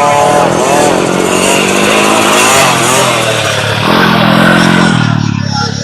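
Motocross motorcycle engines running hard and revving, their pitch shifting up and down, with a lower engine note coming in about four seconds in.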